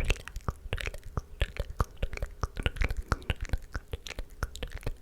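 Close-miked ASMR mouth sounds: a fast, irregular run of wet clicks and smacks with soft inaudible whispering.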